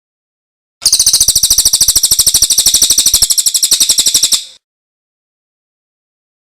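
A songbird's loud, rapid high trill of roughly a dozen even notes a second, starting about a second in and stopping after about three and a half seconds.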